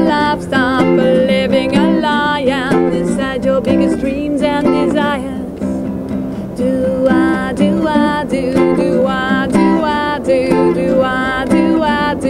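A woman singing to her own strummed acoustic guitar, with long held notes that waver in pitch.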